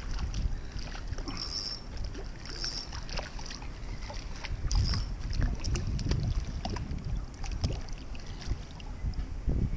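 Water lapping against a Hobie fishing kayak's hull, with wind buffeting the microphone and scattered small clicks and knocks.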